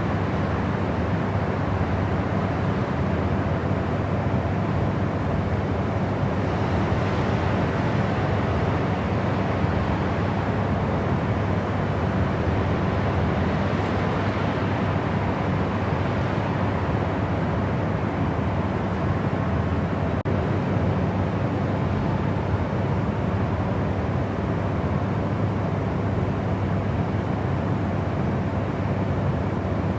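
Steady white-noise track: an even rushing hiss, heavier in the low end and softer in the highs, with one very brief dropout about twenty seconds in.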